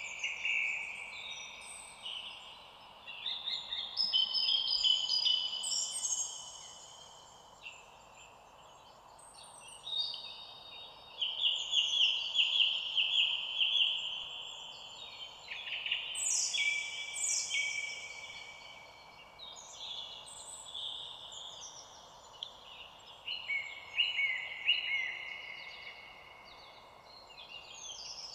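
Several songbirds singing at once, overlapping phrases of trills and chirps in bouts of a few seconds with quieter gaps between, over a faint steady hiss.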